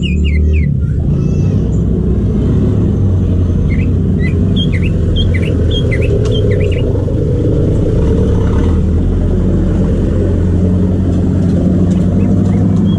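A loud, steady low rumble throughout, with short, quick chirping notes of a green leafbird (cucak ijo) over it in the first second and in a run from about four to seven seconds in.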